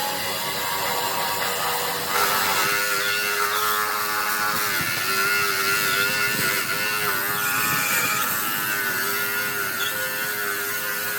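A power tool's motor running with a steady hum over a hiss, its pitch dipping briefly a few times.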